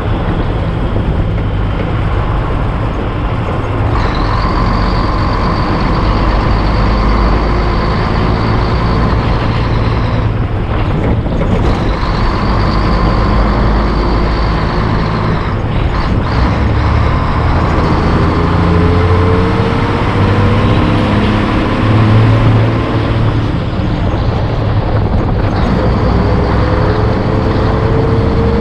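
Heavy diesel truck running down the road under power, a steady engine drone with brief dips twice along the way. A thin whine rises slowly through the second half.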